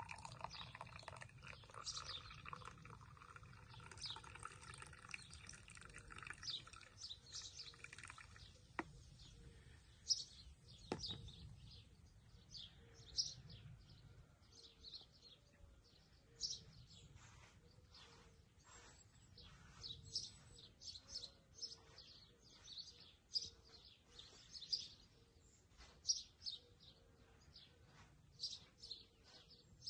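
Songbirds chirping and twittering, many short high calls, fairly faint. A steady chord of held tones underlies the first eight seconds and then stops.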